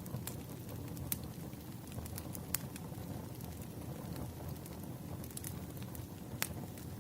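Campfire burning with a steady low rumble of flames and scattered sharp crackles and pops from the wood, the loudest about a second in, midway, and near the end.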